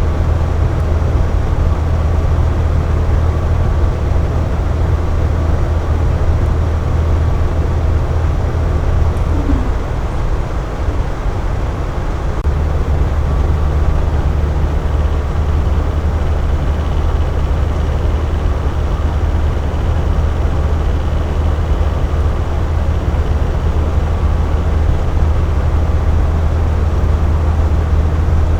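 Air conditioner running steadily: a low hum under an even rush of blown air. The hum eases briefly about ten seconds in, then comes back.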